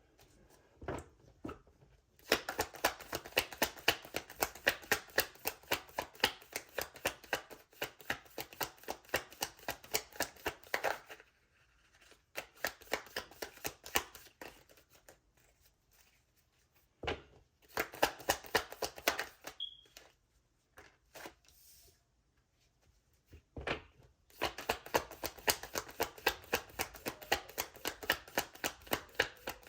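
A tarot deck being shuffled by hand, heard as three runs of rapid card clicks. The first run lasts about nine seconds, a short one falls around the middle, and another of about five seconds comes near the end, with quiet gaps between.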